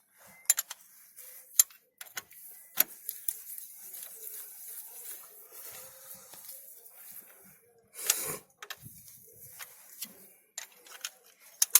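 Sharp metallic clicks and clinks of a wrench on the connecting-rod big-end cap bolts of a Cummins diesel engine as the caps are tightened down on the crankshaft, with one longer rasp about eight seconds in.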